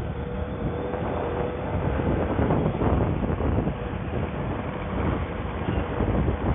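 Bajaj V15 motorcycle under way: wind rushing over the microphone, with the bike's single-cylinder engine running steadily underneath.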